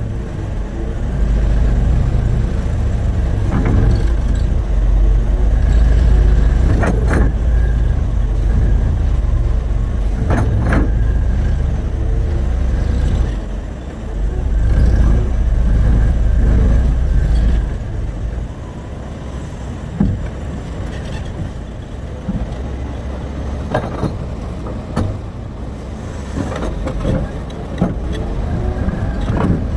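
Terex RH30F hydraulic excavator's diesel engine working hard under load, with sharp knocks from the bucket and stones several times. About two-thirds of the way through, the engine eases to a lower, quieter run.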